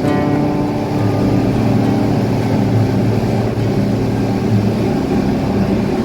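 Glass-bottom tour boat's engine running steadily underway, a continuous low hum.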